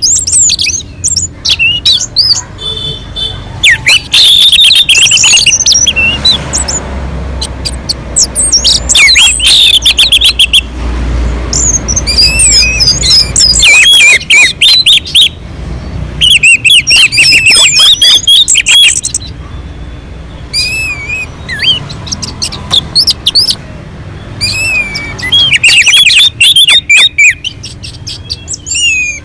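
Orange-headed thrush singing loudly and continuously, in rapid, varied phrases of whistles and chirps delivered in bursts with short pauses between. A low rumble runs underneath from about six to fourteen seconds in.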